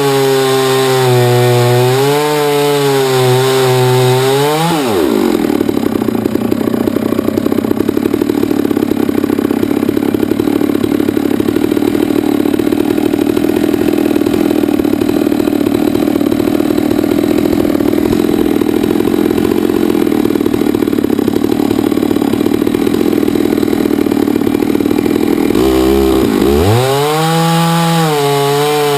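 Chainsaw-mill engine running under load while slabbing a hard maple log, its pitch wavering. About five seconds in the pitch rises sharply and holds higher and steadier for about twenty seconds, then dips and settles back to the lower, wavering note near the end.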